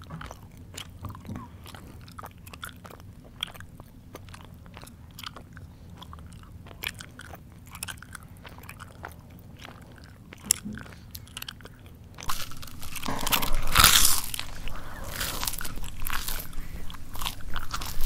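Close-up mouth sounds of someone chewing food, with soft scattered clicks at first, then much louder, denser chewing from about two-thirds of the way through.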